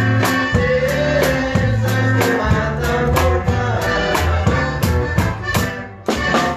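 Live conjunto band playing a corrido, with a steady drum beat of about three hits a second under bass notes and a melody line.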